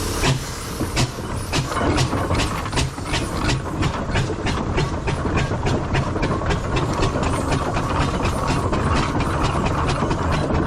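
Steam traction engine's exhaust chuffing as it gets under way, the beats quickening from about two to about four a second over a low running rumble.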